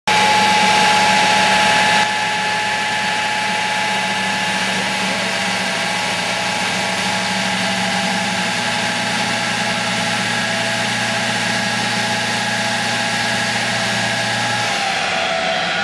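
Nissan 200SX engine running at steady revs on a rolling road, a loud even drone with no revving. The level eases slightly about two seconds in, and a low hum drops out near the end.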